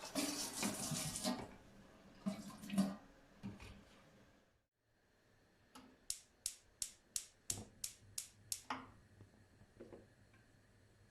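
Household handling sounds: a brief rush like water from a tap, a few knocks, then after a short pause a quick run of about nine sharp taps, roughly three a second.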